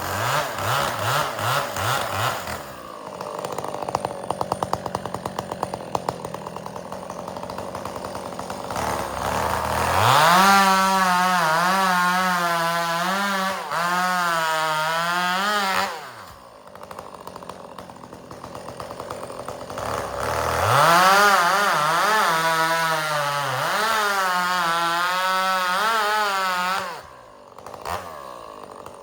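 Two-stroke chainsaw bucking firewood. It idles unevenly, then runs at full throttle through a cut for about six seconds with the pitch wavering under load, falls back to idle, and makes a second cut of about six seconds before dropping back again.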